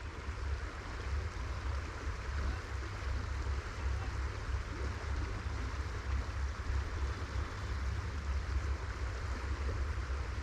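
Steady rush of flowing river water, with a low, uneven rumble of wind on the microphone underneath.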